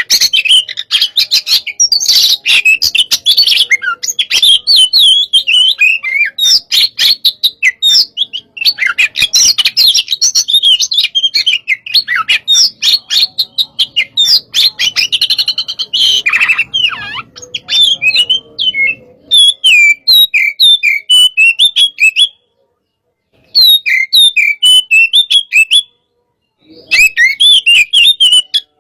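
Oriental magpie-robin singing fast and continuously: a loud, varied stream of chirps, sweeping whistles and harsh, clicking notes. The song breaks off twice for about a second near the end.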